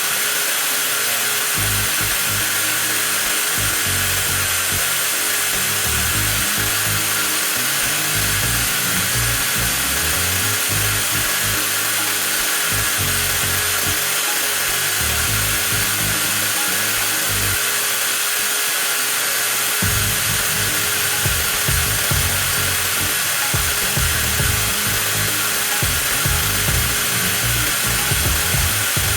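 A 20V cordless angle grinder running steadily with no load, giving a constant high-pitched motor whine, heard under background music with a beat.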